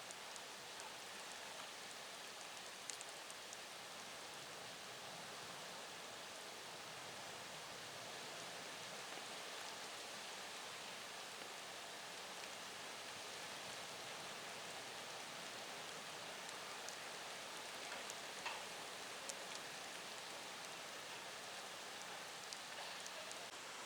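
Steady typhoon rain falling, with a few faint ticks of single drops.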